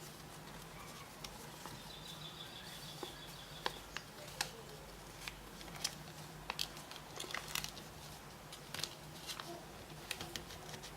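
Paper being folded and creased by hand: scattered crinkles and small taps over a steady low hum.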